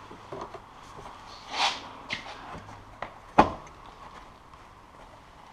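Scattered clicks and scuffs of a stock snowmobile exhaust can being worked loose from a tight spot, with a short rush of noise about a second and a half in and one sharp knock about three and a half seconds in.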